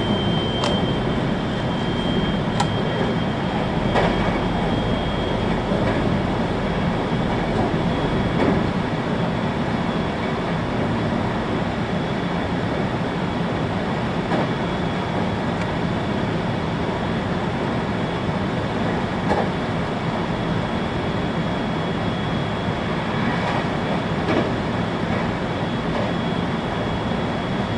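A 521-series electric train (motor car KuMoHa 521-15) running along the line, heard from inside the car: a steady rumble of wheels on rail, with a few scattered clicks and a faint high whine that comes and goes.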